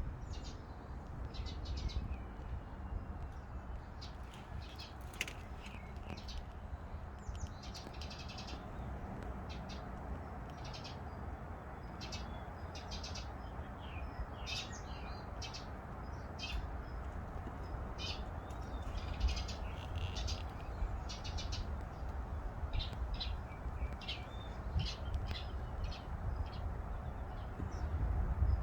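Small birds chirping in short, repeated calls throughout, over a steady low rumble.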